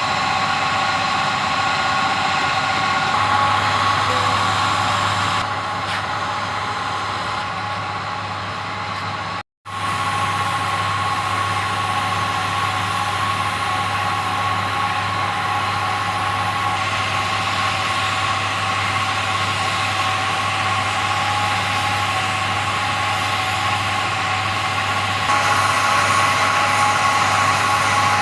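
A motor or machine running steadily with a constant hum and whine, broken off sharply for a moment about nine and a half seconds in, and stepping a little louder or quieter a few times.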